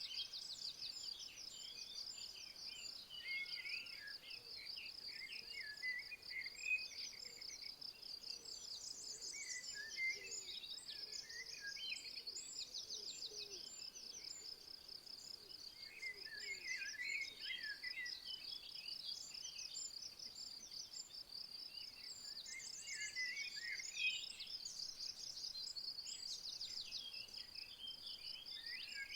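A steady high-pitched insect trill, pulsing fast and evenly without a break, with songbirds chirping and singing in short bursts over it, busiest around a few seconds in, in the middle, and near the end.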